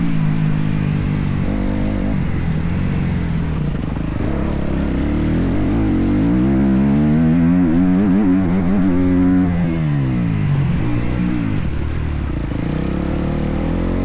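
Motocross bike engine under throttle, its pitch climbing and dropping again and again as the rider accelerates and backs off, loudest near the middle.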